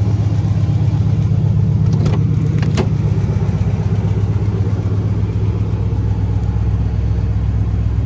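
1980 Oldsmobile 98's engine running steadily, with a couple of short clicks about two and three seconds in.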